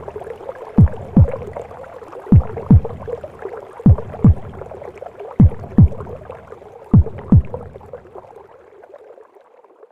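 A mother's heartbeat heard as inside the womb: deep double thumps, lub-dub, about every one and a half seconds, over a steady whooshing womb noise. The beats stop after the fifth pair, and the whoosh fades out near the end.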